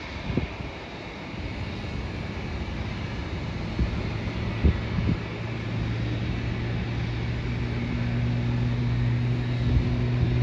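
Outdoor airport ambience: a steady rumble of engine and traffic noise with a few light knocks, and a low engine hum that sets in about halfway through and slowly grows louder.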